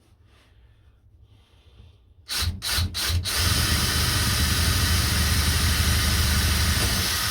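Electric jigsaw cutting a hardwood board that is tougher than pine: three or four short bursts about two seconds in, then a steady run until it stops just before the end.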